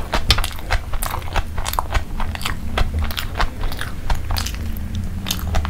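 Close-miked, open-mouthed chewing of a crispy breaded chicken burger patty: a dense, irregular run of crunchy crackles and wet mouth clicks.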